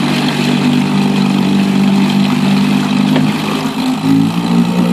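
1957 Evinrude Fisherman 5.5 hp two-cylinder two-stroke outboard motor running steadily in forward gear, its pitch shifting slightly a little after three seconds in.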